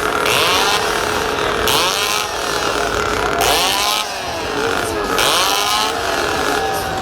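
Two-stroke chainsaws revved hard over and over by spectators, the engine pitch sweeping up and falling back about every second and a half.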